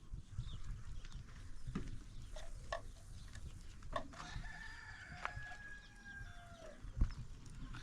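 A rooster crowing once, a single drawn-out call of about two seconds that starts about four seconds in and falls at the end, with a few sharp clicks and knocks around it.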